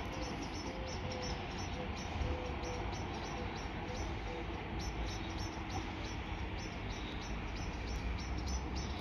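Bird chirping over and over, several short high chirps a second, over a steady low rumble. A faint, evenly spaced low beeping repeats through the first half and fades out.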